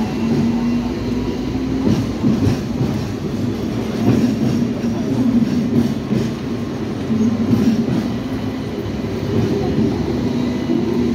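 Hong Kong double-decker electric tram running along street track, with a steady low hum and rumble and occasional clicks of the wheels over the rails.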